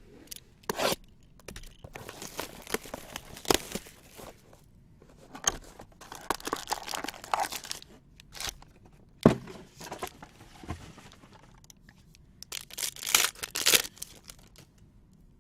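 Baseball card pack wrappers being torn open and crinkled, in three rustling bursts, with a few sharp taps between them.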